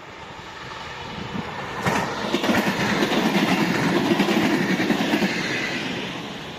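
SKPL SN84 railcar passing close by: its rolling noise swells sharply about two seconds in, with quick rhythmic wheel clatter over the rails, then fades as it moves away.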